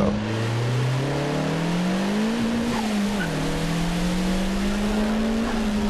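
Race-car engine sound effect accelerating, its pitch rising, dropping once about three seconds in as at a gear change, then climbing slowly again.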